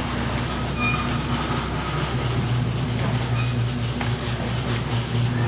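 Semi truck running at steady speed, its engine drone and road rumble heard from inside the cab.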